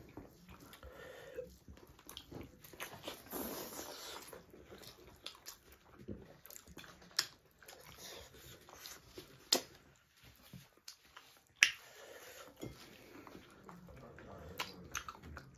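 Two people chewing and biting into chicken drumsticks, wet mouth sounds with a few sharp smacks or crunches, the loudest about two thirds of the way through.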